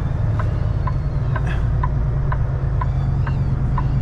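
Semi truck's diesel engine running steadily at low revs, heard from inside the cab, with a light regular ticking about twice a second over it.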